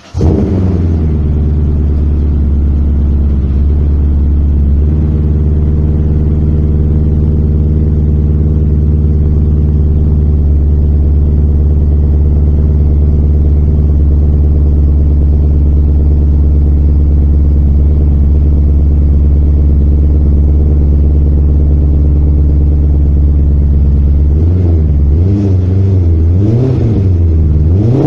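BMW E39 M5's 4.9-litre V8 through a Fox exhaust with a Magnaflow X-pipe, catching on a cold start with a brief flare, then settling into a steady, deep idle. Near the end it is blipped three or four times, the revs rising and falling.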